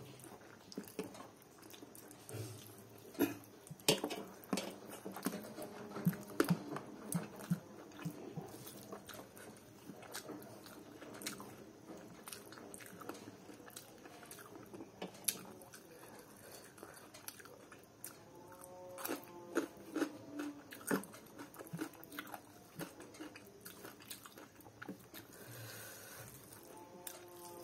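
Close-miked chewing and wet mouth sounds of a person eating rice and chicken curry by hand: irregular smacks and clicks. A few brief pitched sounds come in about two-thirds of the way through and again near the end.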